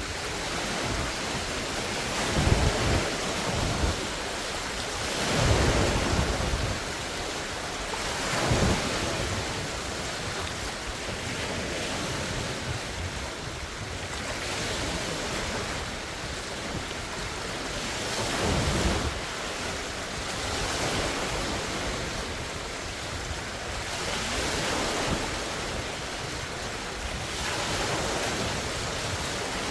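Large wind-driven lake waves breaking and splashing on the shore, swelling louder every few seconds over a steady wash, with wind buffeting the phone's microphone.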